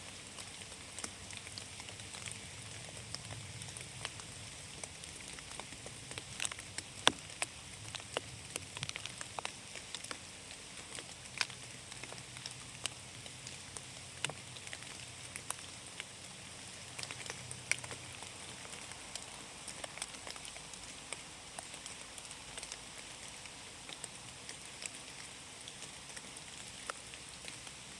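Rain falling in a forest: a steady hiss of rainfall with many separate drops pattering close by. A few drops land louder, the loudest about seven seconds in.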